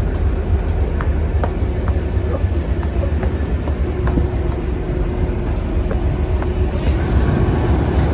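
Diesel train engine idling at a station, giving a steady low drone with one constant hum over it.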